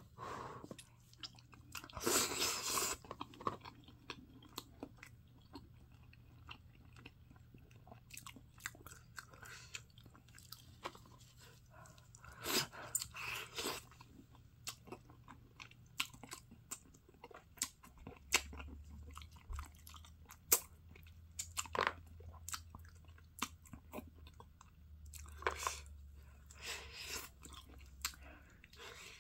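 Close-up chewing and biting of spicy grilled pork backbone meat: irregular small crunches and mouth clicks, with a few louder bites scattered through.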